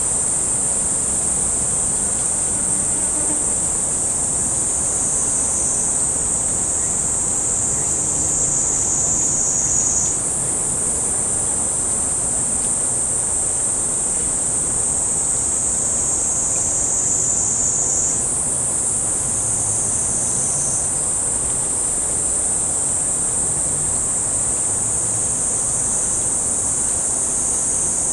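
Steady, high-pitched chorus of insects shrilling without a break, with a faint low hum beneath it. Twice, about ten seconds in and again near eighteen seconds, the chorus sinks slowly in pitch and then jumps back up.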